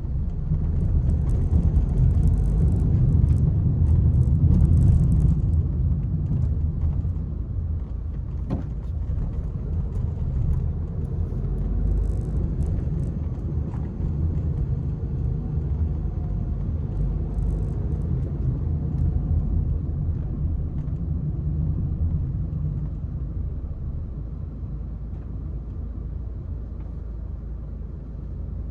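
Peugeot 301 on the move: a steady low rumble of engine and road noise that swells in the first few seconds, then eases off gradually toward the end.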